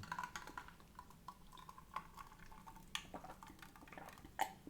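Faint eating sounds: quiet chewing and small crackles, with three sharper clicks about a second apart in the second half.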